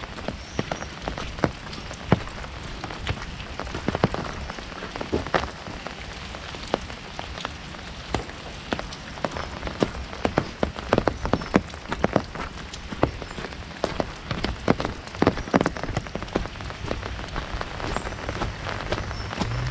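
Heavy rain on an umbrella: a steady hiss of rain with many irregular, sharp drop impacts on the canopy.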